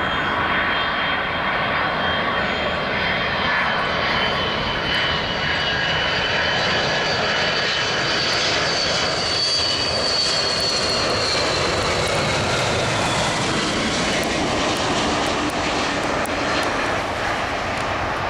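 Jet airliner engines running, a loud steady roar with a high turbine whine that rises and falls gently in pitch partway through.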